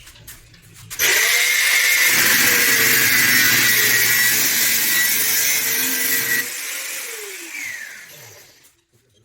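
An electric power tool's motor starts suddenly, runs at a steady high speed for about five seconds, then is switched off and winds down, its whine falling in pitch as it coasts to a stop.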